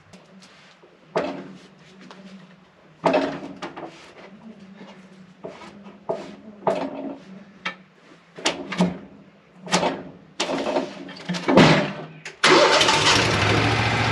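Portable sawmill's engine idling under a string of separate knocks and clunks, then about twelve seconds in it throttles up to a loud, steady run.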